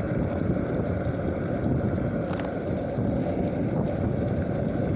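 Skateboard wheels rolling at speed: a steady low rumble.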